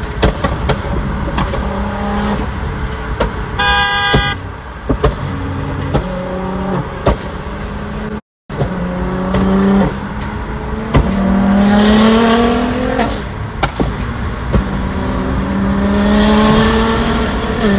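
Car engines revving, their pitch rising in long pulls twice in the second half, with sharp pops along the way. A short car horn honks about four seconds in.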